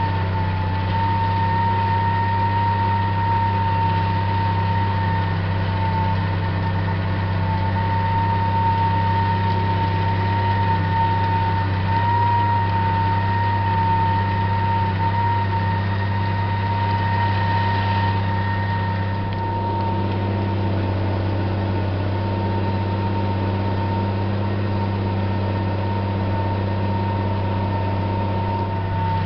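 MB Trac 1500 tractor's six-cylinder diesel engine running steadily under the load of a seven-furrow plough, heard from on board, with a steady high whine over the deep engine note. It eases off slightly about two-thirds of the way through.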